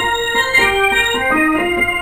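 Electronic keyboard playing a melody in sustained, held notes that change pitch every few tenths of a second.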